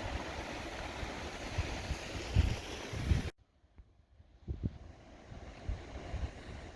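Wind buffeting the camera microphone in low thumps over a steady hiss of wind and sea. It cuts off suddenly about three seconds in, leaving fainter gusts.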